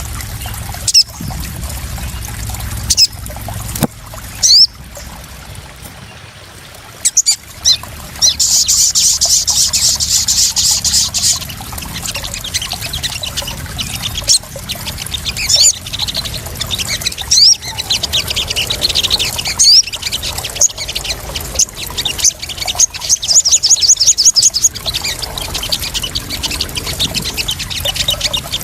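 Small birds chirping and trilling high and fast over trickling, splashing water, with a few sharp splashes in the first seven seconds. The densest trills come about eight seconds in and again near twenty-three seconds.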